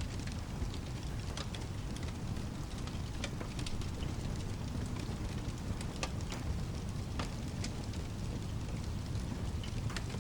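Steady rain with a low rumbling wash underneath, and a wood fire crackling in irregular sharp pops throughout.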